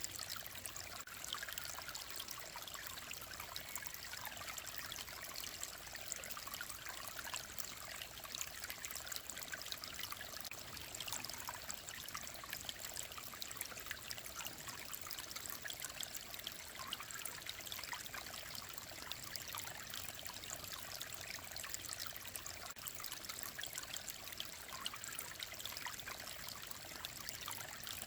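Clear mountain stream flowing steadily: a continuous babble of small splashes and trickles.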